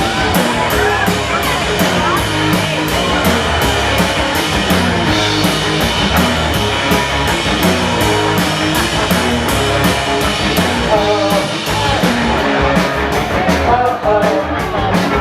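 Rock band playing live, a dense instrumental passage with a steady fast beat.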